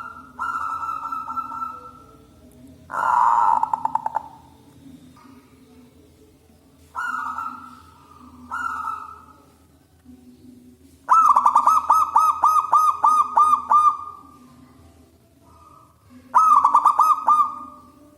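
Zebra dove (perkutut) cooing in repeated short phrases. About eleven seconds in comes a longer phrase of rapid pulsed coos, and a shorter one near the end.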